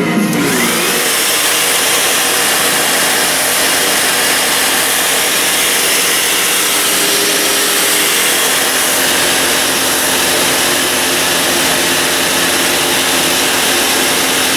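Vacuum cleaner running steadily as it is used on a laptop keyboard: a loud, even whooshing hiss with a steady motor hum, starting abruptly.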